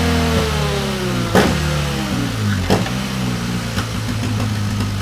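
BMW R1200GS boxer twin running through a Delkevic DL10 carbon fibre exhaust, its revs falling off for the first few seconds and then settling to a steady low idle. Three sharp pops come as the revs drop.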